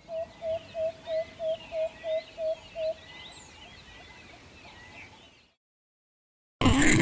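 An owl giving a quick series of about ten even hoots, roughly three a second, with small birds chirping in the background. After a short silence, a loud, low animal grunt breaks in at the very end.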